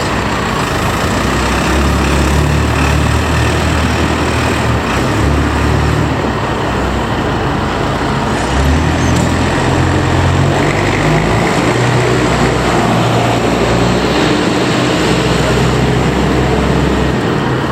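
Heavy vehicle engine running under varying load, its low drone stepping up and down in pitch several times.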